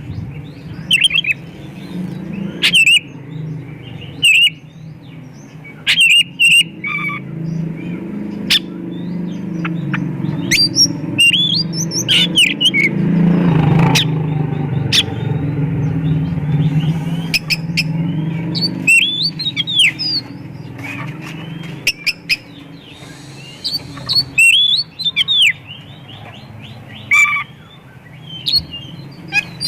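Oriental magpie-robin (kacer) singing in repeated loud bursts of sharp chirps, whistles and rising and falling trills, its song full of mimicked calls of other birds, over a steady low hum.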